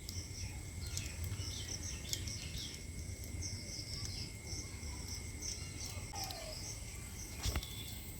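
A small bird chirping repeatedly in short high calls over a steady low background rumble, with a brief thump about seven and a half seconds in.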